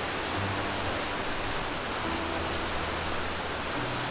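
Waterfall: a steady rush of water pouring over a rock ledge.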